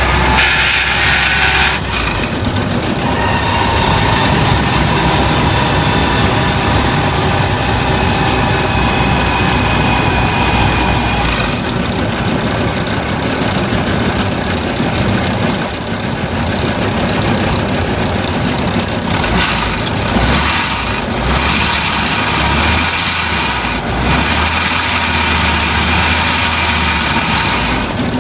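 A vehicle engine running, with steady high whining tones over it that change a few times; this is the noise the owner regards as suspect.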